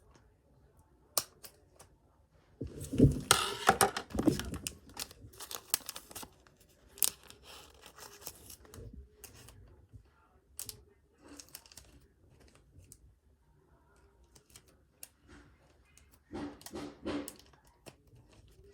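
Trading-card packaging being torn open and handled: a loud stretch of tearing and rustling about three seconds in, scattered clicks and rustles after it, and a shorter tear near the end.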